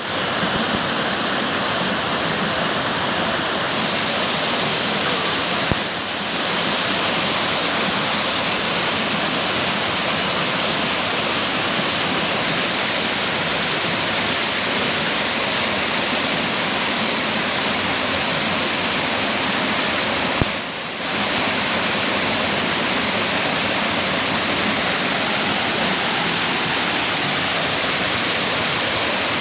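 Waterfall pouring: a loud, steady rush of falling water, dipping briefly twice.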